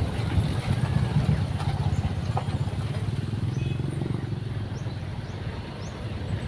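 A vehicle running during a ride: a steady low rumble of engine and road noise.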